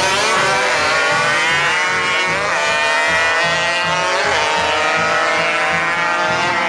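Drag-racing motorcycle engine accelerating hard through the gears: a rising note that drops sharply at each upshift, twice, then climbs again.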